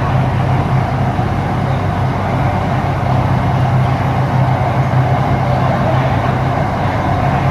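Ho Chi Minh City Metro Line 1 train running between stations, heard inside the car: a steady running noise with a strong low hum.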